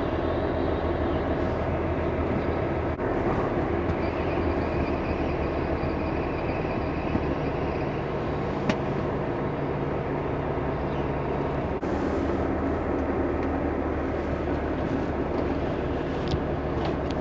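Steady drone of a semi-truck's diesel engine running as the truck drives.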